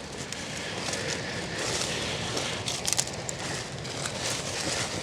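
Loose dirt and gravel crunching and scraping as a person slides down a steep slope on his backside, with a sharper click about three seconds in.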